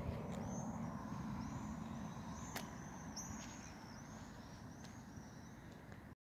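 A small bird chirping repeatedly with short, high, arched notes, over a steady low outdoor rumble.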